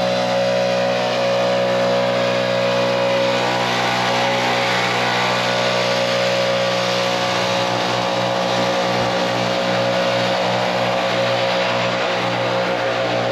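Small gas engine of a handheld power tool running steadily at a constant high speed.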